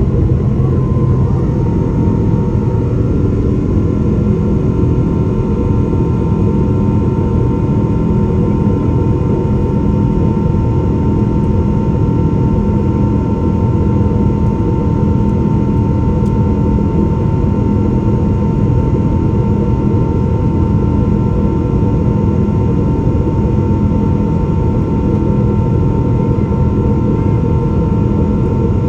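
Boeing 777-300's jet engines running at high power, heard inside the passenger cabin. A steady, loud low roar carries several steady whining tones, and one whine drops slightly in pitch about two seconds in.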